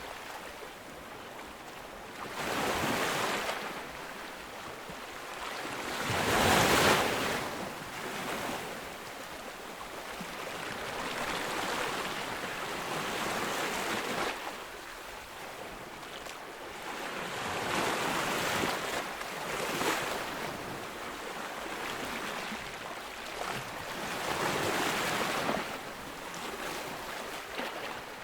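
Ocean waves breaking on a beach, each one surging in as a wash of noise and then draining back, several in a row. The biggest wave breaks a few seconds in.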